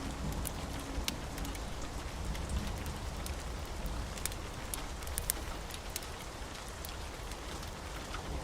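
Wood fire in a fireplace crackling: scattered sharp pops and snaps over a steady hiss and low rumble.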